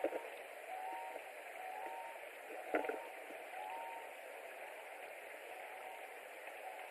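Distant birds calling: short, clean, honk-like notes, often two pitches together, repeated about once a second over a steady hiss, with a sharp knock at the start and another about three seconds in.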